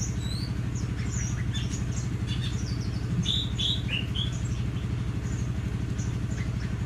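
Birds giving short, scattered chirps and whistles, with a cluster of louder calls around the middle, over a steady low hum with a fast even pulse.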